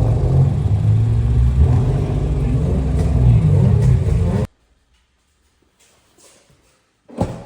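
Car engine running loud, its pitch rising and falling a little. It cuts off abruptly about four and a half seconds in, and near silence follows until a short knock near the end.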